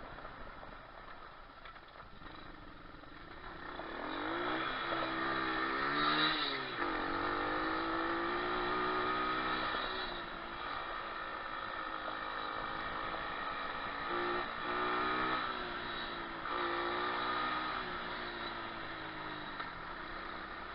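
Moto4 125cc pit bike's single-cylinder four-stroke engine being ridden, its revs climbing and dropping with the throttle. The largest rise peaks about six seconds in and falls off sharply, and a shorter rise and fall follows later.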